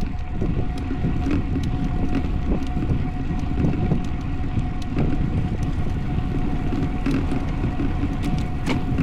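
Wind buffeting the microphone and tyre and road rumble from a road bike riding at speed. A thin steady tone and scattered light ticks run through it.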